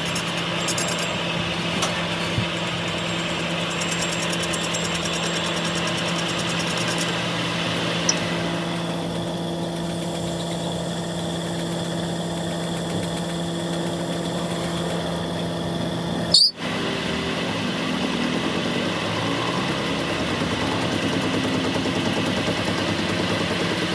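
An engine running steadily with a constant low hum. About sixteen seconds in, the sound breaks off abruptly for a moment, then carries on with a slightly different texture.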